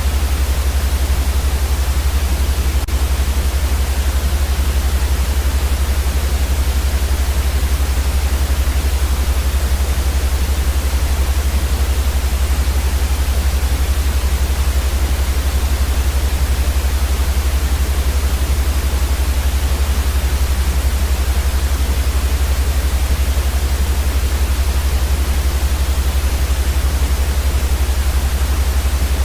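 Steady synthetic white noise, an even hiss across the whole range with a strong deep rumble underneath, unchanging throughout.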